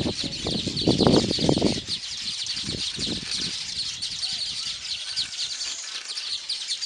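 Birds chirping in a dense, continuous chatter of rapid high notes. A few louder low, muffled bursts come in the first half, the strongest about a second in.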